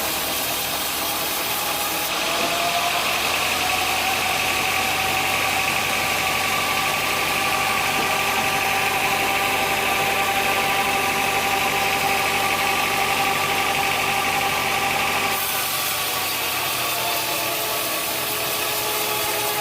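Sawmill machinery running steadily with a motor hum. About two seconds in, a louder high hiss and whine joins, and it drops away again about four seconds before the end, as a saw cutting timber would.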